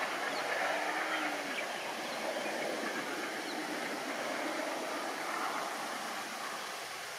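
Train rolling past: a steady rushing noise of wheels running on the rails.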